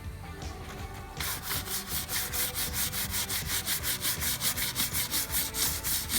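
Fast, rhythmic hand scrubbing of a rusty wheel rim with a cleanser paste, using a soft bristle brush and a Scotch-Brite pad. The scrubbing starts about a second in, at roughly four to five strokes a second, knocking off surface rust.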